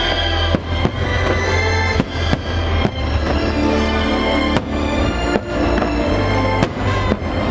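Aerial firework shells bursting in a string of sharp bangs, about nine in a few seconds, irregularly spaced, over loud show music playing throughout.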